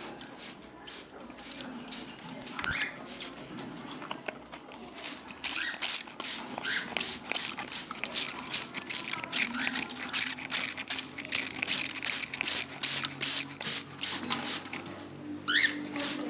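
Cockatiel bath: rapid, repeated bursts of water spray or splashing, about three a second, starting some five seconds in. Short rising chirps sound now and then.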